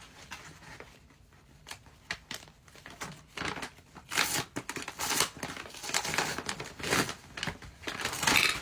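Gift packaging crinkling and tearing as it is handled and opened. It is fairly quiet at first, then turns into a run of irregular crackles from a few seconds in, loudest near the end.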